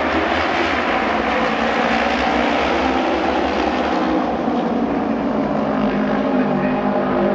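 Several auto race motorcycles, 600cc two-cylinder racing bikes, running at speed together on the oval. Their engine notes blend into a loud, steady drone of several pitches.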